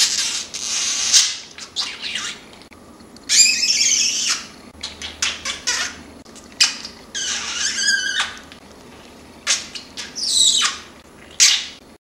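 Male budgerigar chattering and warbling in scratchy, high-pitched bursts broken by quick clicks: a courtship warble.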